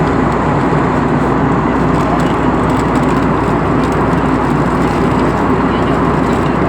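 Steady in-flight cabin noise of a passenger airplane: engine and airflow noise.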